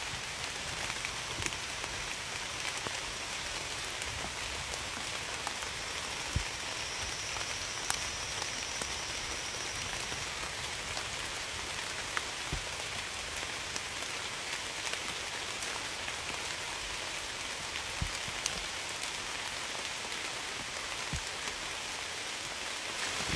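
Steady rain falling: an even hiss with a few louder single drops striking here and there.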